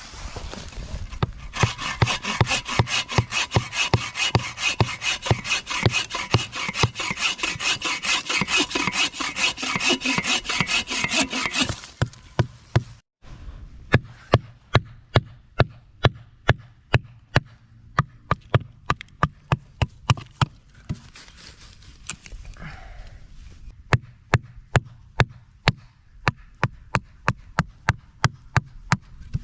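Hand saw cutting through firewood with quick, rasping strokes for about ten seconds. It then stops, and a run of sharp, regular knocks follows, about two a second.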